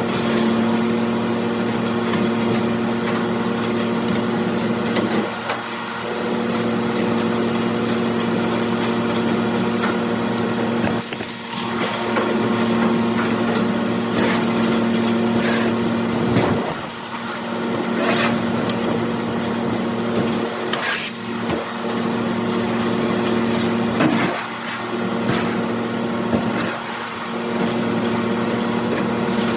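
John Deere 4230 tractor's six-cylinder diesel driving a New Holland 355 grinder-mixer's hammermill, a steady mechanical drone grinding corn. The level dips briefly every few seconds, and there are a few sharp clicks.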